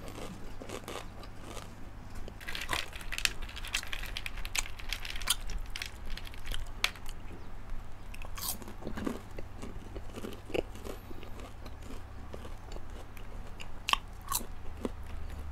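A person biting and chewing crunchy caramel-coated popcorn close to the microphone: sharp, irregular crunches throughout.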